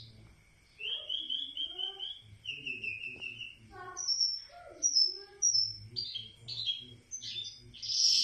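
A songbird singing a varied song of fast trills and short descending whistles, ending in a louder burst of song.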